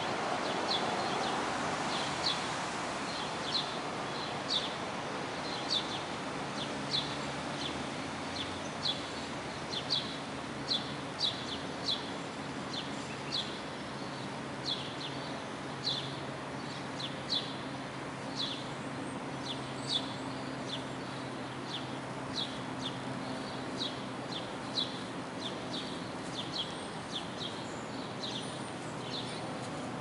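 A bird chirping again and again, short high chirps that drop slightly in pitch, about one a second at uneven spacing, over steady outdoor background noise with a faint low hum.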